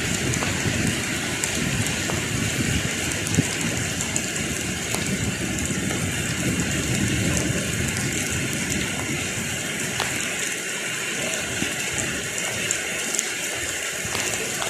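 Heavy rain falling steadily, a constant hiss with scattered sharper drop impacts.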